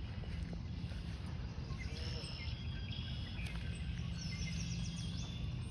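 Small birds chirping in short repeated high notes from about two seconds in, over a steady low outdoor rumble.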